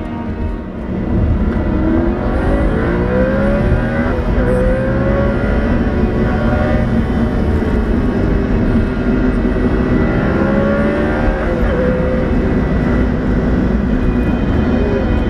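Car engine under hard driving, heard from inside the cabin, its pitch rising under acceleration and falling as it eases off. It gets louder about a second in.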